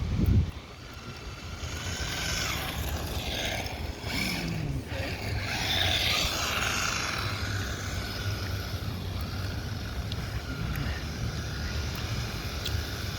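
Small brushed electric motor of a 1/16-scale RC drift truck whining as it runs, with its tyres scrubbing across a hard court while it drifts. Wind rumbles on the microphone throughout, and there is a loud low thump just after the start.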